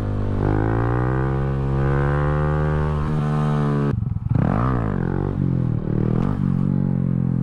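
A Honda Grom's small single-cylinder engine revving under throttle. A long pull rises slowly in pitch for about three and a half seconds and breaks off briefly about four seconds in. Then comes a quick rev up and back down before the engine settles to a steady run.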